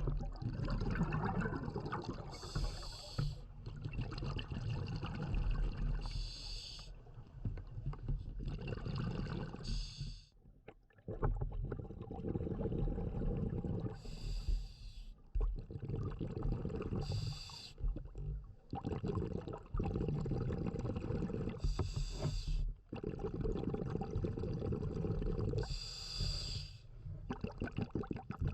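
Scuba diver breathing through a regulator underwater: a short hissing inhale every three to four seconds, with longer stretches of bubbling, rumbling exhaled air between them.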